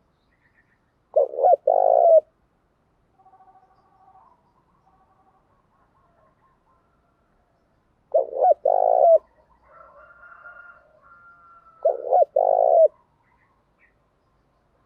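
Spotted dove cooing: three short phrases, each a quick double coo, spaced several seconds apart.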